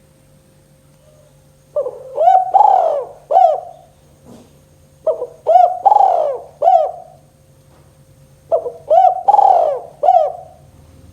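Spotted dove cooing in its 'kuk 2' song: three phrases of several coos each, about three and a half seconds apart, the first starting a couple of seconds in.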